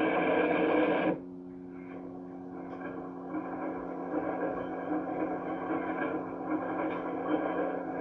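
Film soundtrack without dialogue, heard through a TV speaker: a louder passage cuts off suddenly about a second in, leaving a quieter steady stretch over a constant low hum.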